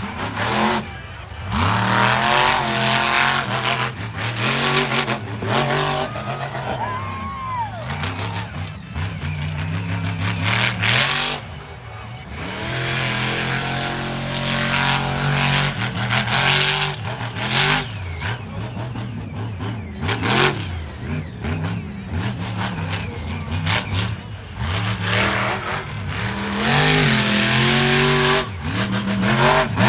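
Monster truck engine revving hard and easing off again and again, its pitch rising and falling as the truck is driven on the track.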